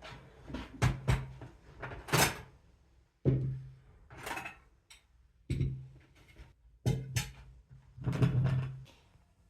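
Irregular series of knocks, clicks and short scraping sounds, a few each second, with quiet gaps between them: objects being handled and set down.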